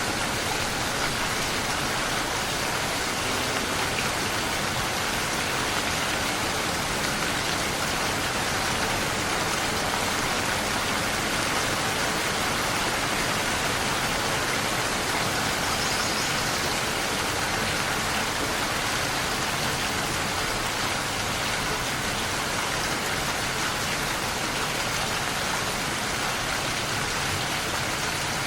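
Steady, even rain falling, an unbroken hiss of many drops with no thunder.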